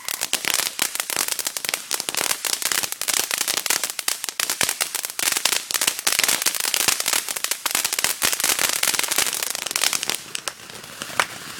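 Consumer firework crackling: a dense, rapid stream of sharp crackles and small pops that thins out to a few scattered cracks about ten seconds in.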